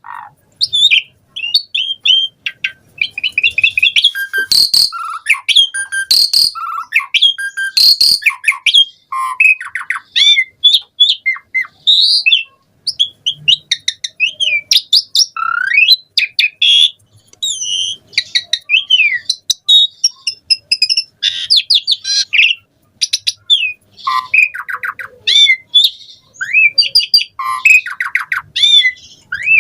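Asian pied starling singing a long, unbroken, varied song of rapid whistles, gliding notes and chatter, full of phrases copied from other birds. A few harsh rasping notes come in the first third.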